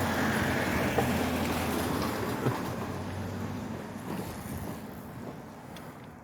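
A motor vehicle going past on the road, its noise fading steadily as it moves away.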